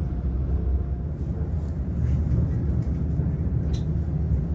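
Steady low rumble of a passenger train running across a steel truss bridge, heard from inside the carriage, with one brief sharp click about three and a half seconds in.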